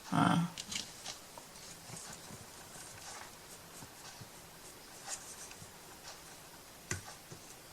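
Scattered light taps and clicks at irregular intervals from hand crafting work on small wooden pieces. A short, duller knock comes at the very start and a sharper click near the end.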